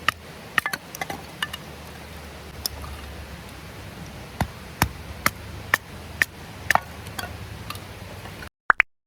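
A steady series of sharp knocks or taps, about two a second, over faint background music that fades in the first few seconds; the sound cuts off suddenly near the end.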